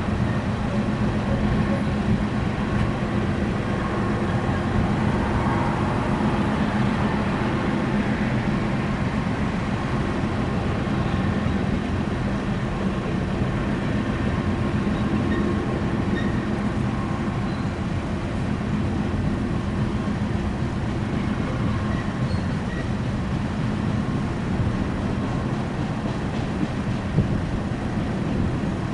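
Empty BNSF coal train rolling past, a steady, even noise of the train in motion on the rails.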